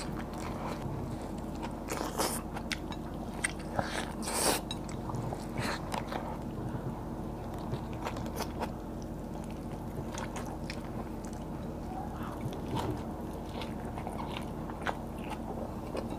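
Close-miked eating of fried tilapia and tortang talong (fried eggplant omelette): wet chewing and mouth sounds broken by many short, crisp crackles of bites, over a low steady hum.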